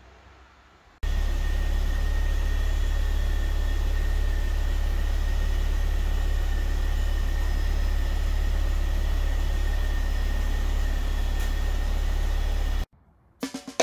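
Car engine idling steadily, with a deep, even hum and a faint high whine, starting suddenly about a second in and cutting off suddenly near the end.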